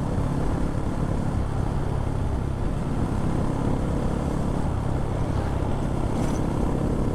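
Honda MSX 125 minibike's single-cylinder engine running steadily while riding, mixed with dense low wind rumble on the camera microphone.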